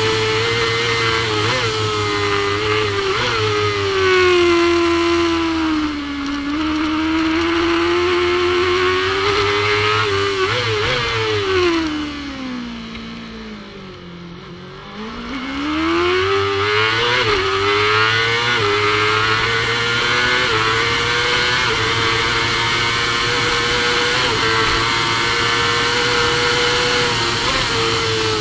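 Supersport racing motorcycle engine at full race pace with wind rush: the note falls as the bike brakes hard for a slow corner, with short throttle blips on each downshift. It runs quietest and lowest about fourteen seconds in, then climbs in steps through the upshifts as the bike accelerates hard, and settles into a steady high note near top speed.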